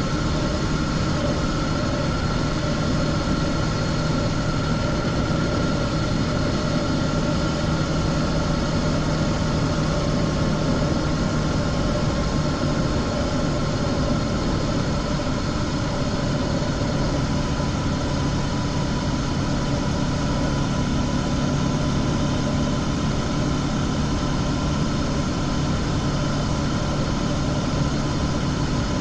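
Honda CB500X parallel-twin engine through its stock exhaust, cruising at a steady, nearly unchanging engine speed, with a constant rushing noise beneath it.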